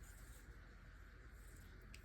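Near silence: steady room tone with low hum and hiss, and one faint click near the end.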